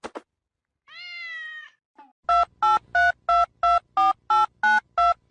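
A cat meows once, then a telephone keypad sounds about ten quick dialing beeps, roughly three a second, each a two-tone chirp.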